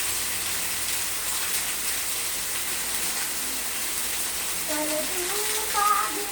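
Steady heavy rain falling and pattering on surfaces, with scattered drop ticks. A person's voice comes in over it about five seconds in.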